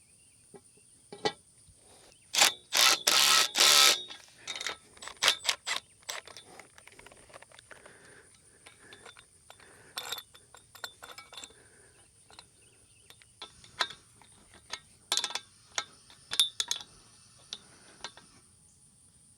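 Metal hardware clicking and clanking as a bolt-up pipe brace bracket is fitted and bolted onto galvanized steel fence pipe. A dense run of loud clicks comes about three seconds in, followed by scattered single clicks and knocks.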